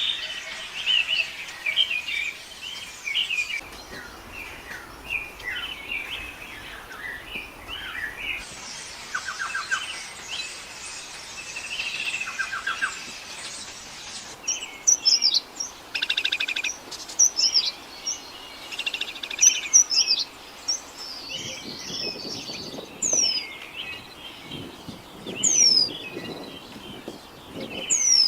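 Songbirds singing and calling: short chirps, rapid buzzy trills and, in the last few seconds, three sharp whistles that fall in pitch. The background hiss changes abruptly several times, as if separate recordings were joined one after another.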